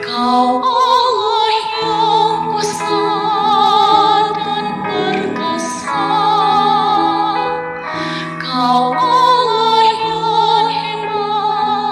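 Church choir singing in several parts, with long held notes and vibrato in the upper voices.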